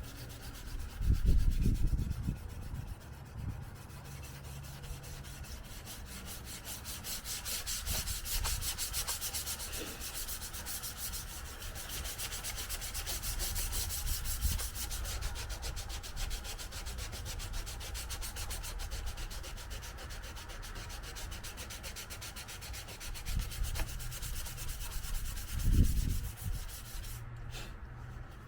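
Fine-grit sandpaper rubbed by hand over a car body panel in steady back-and-forth strokes. A couple of low thumps come about a second in and near the end.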